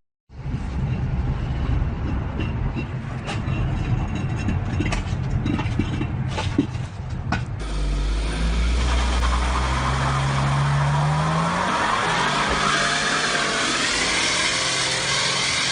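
Heavy vehicle engine running with a low rumble and a few sharp knocks and clatters. After a cut about halfway through, an engine revs up, its pitch rising for a few seconds before it settles.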